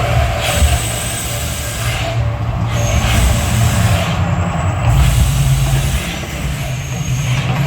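The Mirage hotel's volcano show erupting: a deep, steady rumble under loud hissing rushes. The hiss thins out briefly about two seconds in and again about four and a half seconds in.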